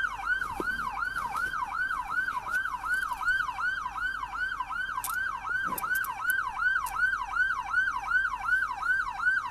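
Police car's electronic siren in yelp mode, sweeping rapidly and repeatedly in pitch, about three to four sweeps a second, with a few faint clicks about halfway through.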